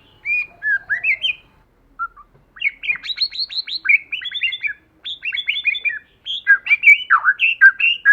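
White-rumped shama singing: a few short whistled phrases, then after a brief pause a fast run of quick downward-sweeping notes followed by varied whistled phrases.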